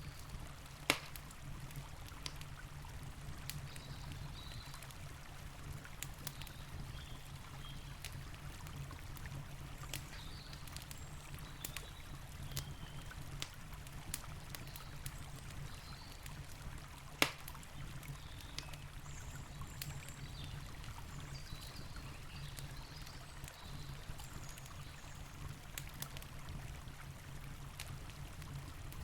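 Campfire crackling with scattered sharp pops, over the steady rush of a river. Two pops stand out as much louder than the rest, about a second in and again about halfway through.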